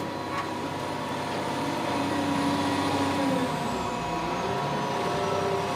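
Heavy twin-grapple log-handling machine at work unloading a truck: a steady engine noise with a wavering hydraulic-like whine over it.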